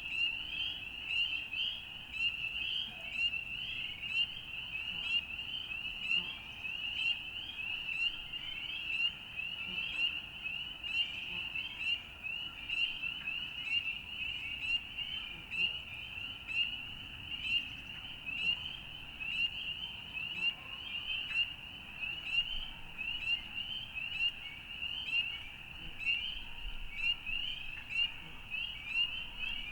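A dense frog chorus: many high-pitched, short rising calls overlapping without a break, their loudness swelling and dipping unevenly.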